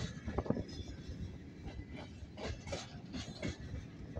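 Freight cars rolling past: steel wheels clacking over the rail joints in repeated, uneven knocks over a steady low rumble.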